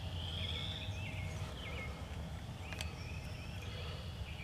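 Small songbirds singing in the dawn chorus: quick repeated chirping phrases and a long high thin note, over a steady low rumble. A single sharp click about three seconds in.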